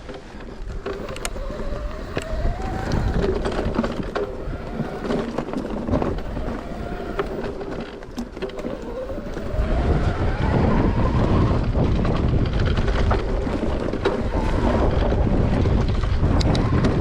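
Shimano EP8 e-bike mid-drive motor whining, rising in pitch twice as the rider pedals up to speed, over tyre noise and scattered clicks and rattles from the bike on the trail. Wind buffets the microphone more heavily from about ten seconds in.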